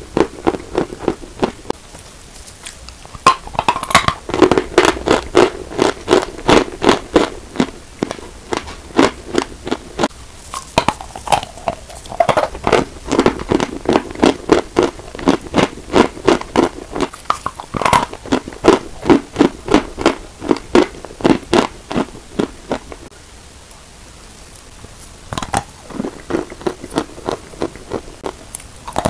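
A person chewing chalk close to the microphone: a steady run of sharp crunches, about two a second. The crunching pauses briefly near the start and again about three-quarters of the way through.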